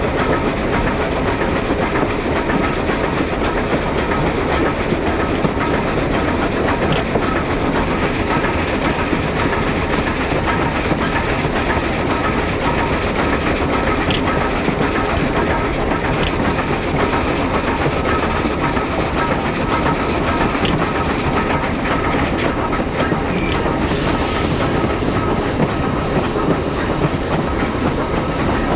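Moving train heard from an open observation car behind a steam locomotive: a steady rumble and rattle of wheels on the rails and the car riding, with a few faint clicks and a short sharper burst of higher sound near the end.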